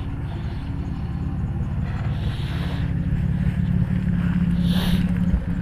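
A 2001 Ford Ranger's 4.0-litre V6 idling steadily as a low, even rumble while it jump-starts another truck.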